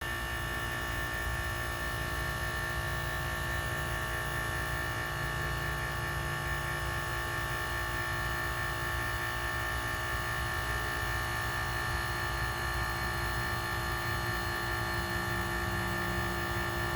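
Air conditioning unit running steadily: a constant low hum with a steady high-pitched whine and a few fainter steady tones.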